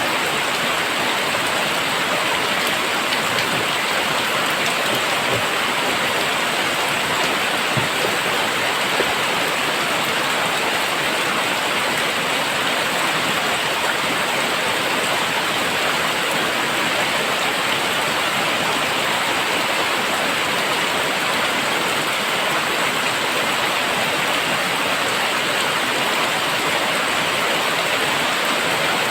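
Very heavy rain pouring down steadily, a dense even hiss of drops hitting surfaces.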